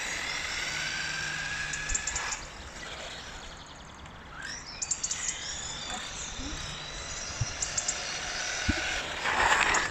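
Radio-controlled truggy's brushed electric motor and drivetrain whining as it drives, the pitch gliding up and down as it speeds up and slows, with scattered short crackles and a few knocks.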